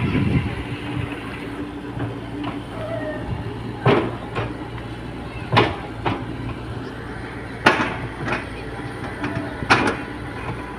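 Sharp knocks of tools striking hard material, repeating about every two seconds, over a steady low engine hum, as work goes on at a collapsed retaining wall.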